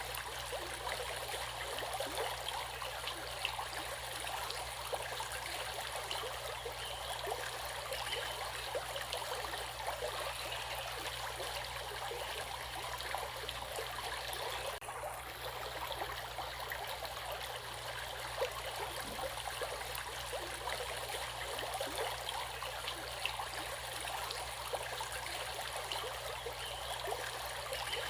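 Flowing stream water, a steady rush with trickling and small splashes.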